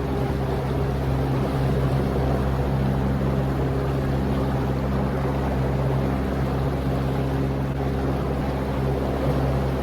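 Boat motor running steadily as the fishing boat moves along, a constant low drone under a steady rushing noise.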